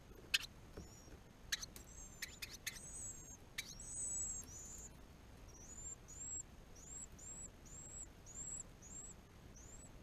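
Sharp clicks and taps on metal with a few high chirps, then a run of about nine short, thin, upward-sweeping chirps, roughly two a second, at a Carolina wren's nest as the adult arrives.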